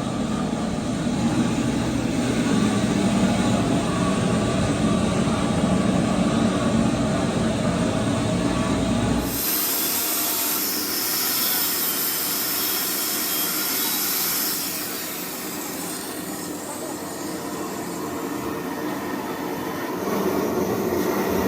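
Steady mechanical rumble that changes abruptly about nine seconds in to a thinner, hissier noise with little bass.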